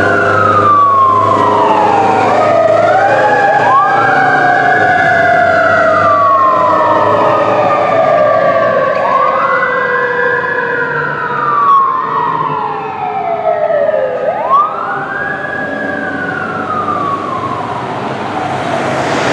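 Fire truck siren wailing, each wail climbing quickly and falling away slowly, repeating about every five seconds over a low engine rumble. A second siren overlaps briefly a few seconds in.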